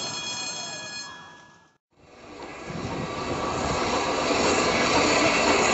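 A miniature railway train running away with a high steady squeal fades out in the first second and a half. After a brief silence, the steady rumbling noise of steam trains moving in a railway yard fades in and grows louder.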